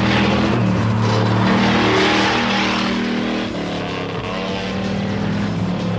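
Car and motorcycle engines running at speed, their pitch stepping up and down, with a rushing noise that is strongest about two seconds in.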